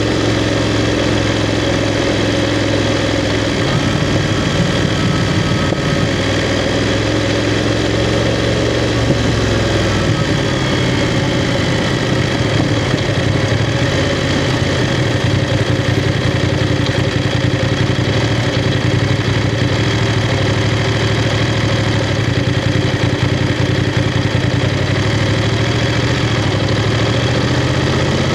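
BMW F 750 GS parallel-twin motorcycle engine running at low, fairly steady revs, its pitch shifting slightly a few times.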